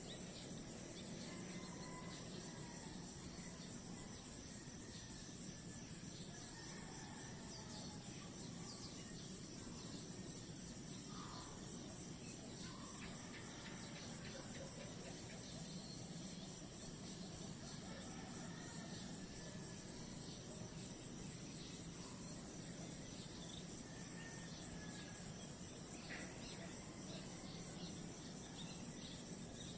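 A steady chorus of insects, likely crickets, trilling in a high, finely pulsing band without a break, with scattered short chirps over it.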